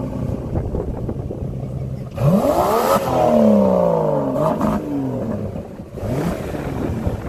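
2020 Aston Martin DBS Superleggera's twin-turbo V12 revved while standing: a low rumble, then a sharp blip of the throttle about two seconds in that climbs and falls back over a couple of seconds, and a smaller second blip near the end.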